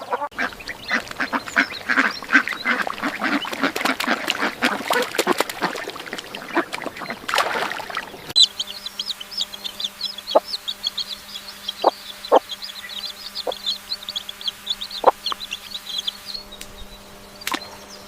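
A flock of waterfowl calling over one another with rapid quacks and honks. About eight seconds in, the sound cuts to a different scene: continuous high, rapid peeping with a few short lower calls over a steady low hum.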